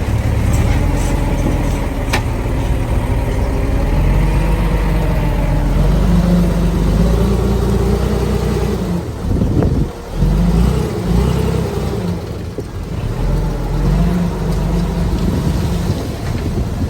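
Heavy diesel earthmoving machinery running and revving under load, its pitch rising and falling, with a sharp knock about two seconds in.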